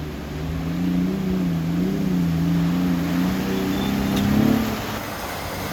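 Off-road vehicle's engine revving under load, its pitch wavering up and down, then climbing to its loudest about four and a half seconds in before dropping back.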